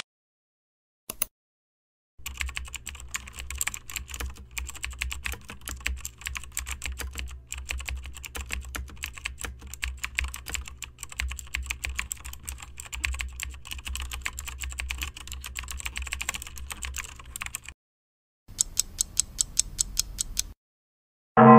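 Rapid typing on a computer keyboard: a dense, uneven run of key clicks lasting about fifteen seconds. After a short pause comes a couple of seconds of faster, evenly spaced clicks.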